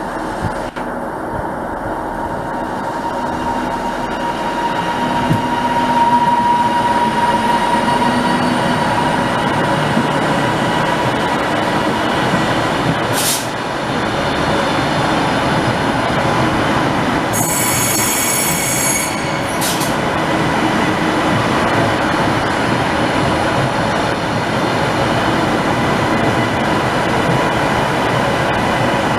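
A train running close by on the tracks, its noise building over the first few seconds and then holding steady. A short high-pitched wheel squeal comes about two-thirds of the way through, with a couple of sharp clicks around it.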